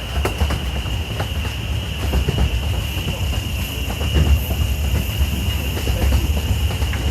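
Small narrow-gauge park train running along its track: a steady low rumble with scattered clicks from the wheels and cars, over a steady high-pitched whine.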